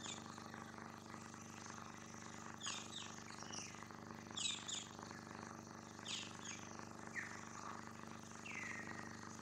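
Birds chirping in short, quick, high downward-sweeping calls that come in small clusters every second or two, with one longer falling call near the end, over a faint steady background hum.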